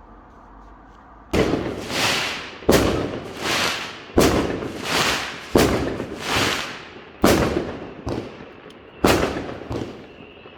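Fireworks going off in a quick series: about six sharp bangs roughly a second and a half apart, starting a little over a second in, each followed by a rolling rumble that swells and fades.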